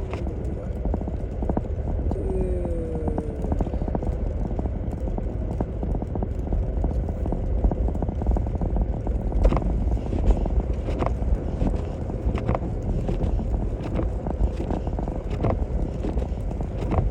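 Inside a Toyota Tacoma pickup's cab on a snow-covered road: a steady low engine and tyre rumble, with scattered sharp knocks that come more often in the second half.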